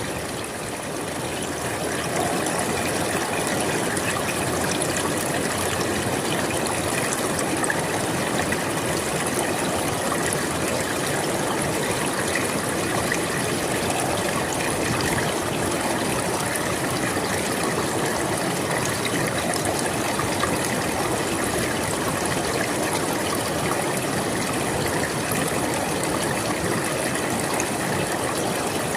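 River water flowing steadily, a continuous even rush; it dips briefly at the start and swells back within about two seconds.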